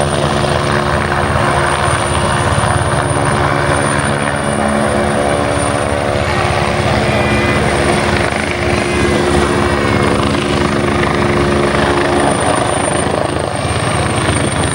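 Helicopter hovering: a steady, continuous deep hum of engine and rotor, with a thin high whine running above it.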